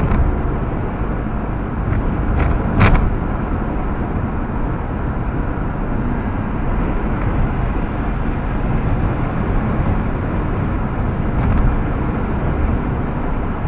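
Steady road and tyre noise heard inside a moving car's cabin at highway speed, with a brief sharp knock about three seconds in.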